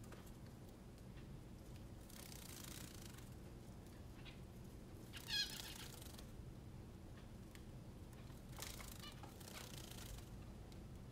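Small pet birds bathing: soft bursts of splashing and fluttering in the water, with one short, wavering high chirp about five seconds in and fainter calls near the end.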